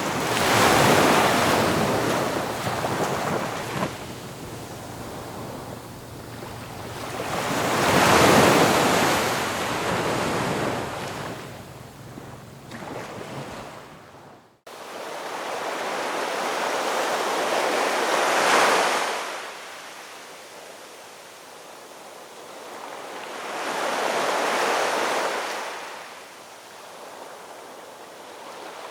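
Ocean waves breaking and washing on a shore, four swells each building and fading over a few seconds. About halfway through the sound cuts out for an instant and comes back with less low rumble.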